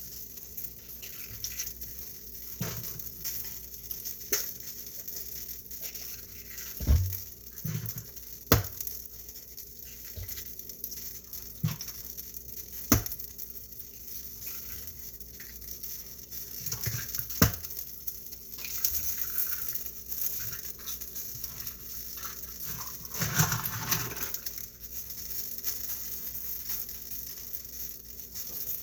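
Food sizzling in a frying pan as a steady hiss, with several sharp knocks and clinks of utensils and dishes.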